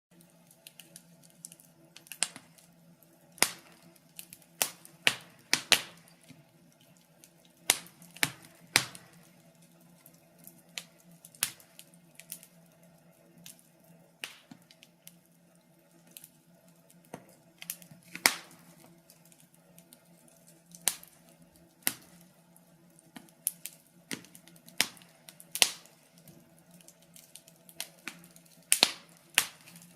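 Wood fire in a fireplace crackling: irregular sharp pops and snaps, a few of them much louder than the rest, over a faint steady low hum.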